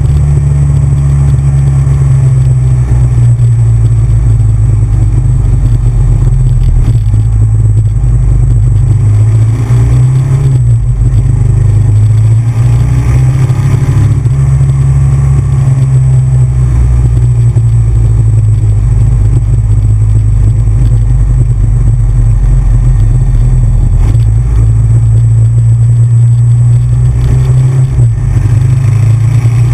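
Big Bear Choppers Titanium motorcycle's V-twin engine running on the move, a loud low exhaust note that shifts in pitch a few times with throttle and gears.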